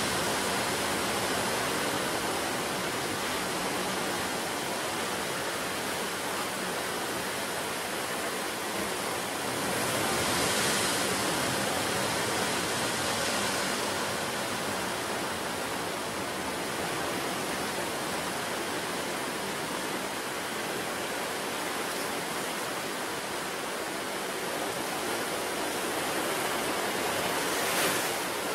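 Ocean surf washing onto the shore, a continuous rush of water that swells about ten seconds in and surges briefly louder near the end.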